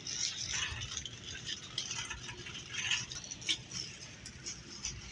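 Light rattling and scattered clicks, a few sharper ticks among them, over low steady store background noise.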